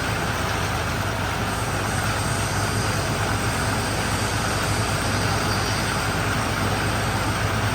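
Chang Tractor F16M sugarcane harvester running steadily: a constant low engine hum under a broad, even rushing noise.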